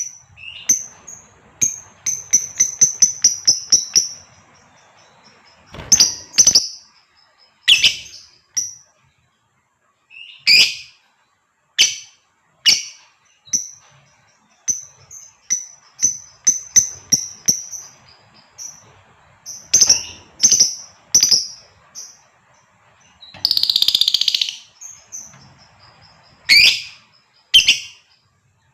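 Female lovebird calling: sharp, high-pitched chirps and shrill single shrieks, with a fast run of chips about two seconds in and a longer, harsher call a little past the middle.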